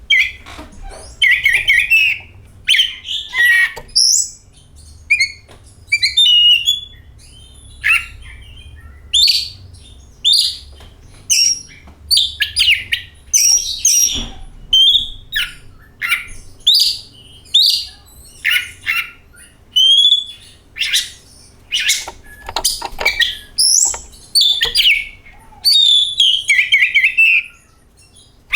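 Oriental magpie-robin (kacer) singing a lively, varied song of short whistled phrases mixed with sharp, harsh chattering notes, one burst after another with barely a pause.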